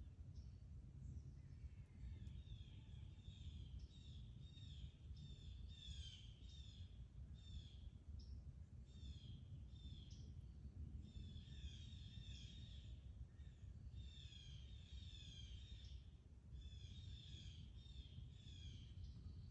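Small birds chirping: phrases of rapid, high, short descending chirps that come and go in spells of a second or two, over a faint low outdoor rumble.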